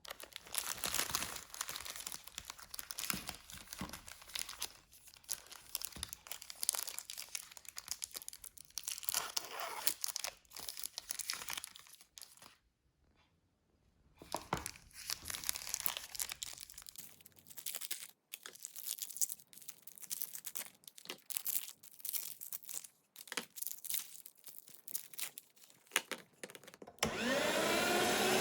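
Plastic candy-bar wrappers crinkling and tearing as Snickers bars are unwrapped, with a short pause in the middle. Near the end an electric meat grinder's motor switches on, its whine rising as it spins up, then running steadily.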